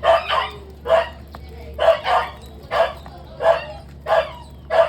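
A string of short, sharp animal calls at a fairly steady pace, about nine in five seconds.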